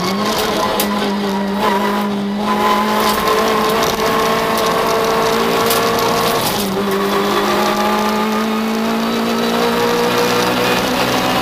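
Citroën Saxo VTS rally car's four-cylinder engine heard from inside the stripped cabin, pulling hard along a stage. The revs climb steadily, dip briefly about two seconds in and again past the halfway point, then climb again.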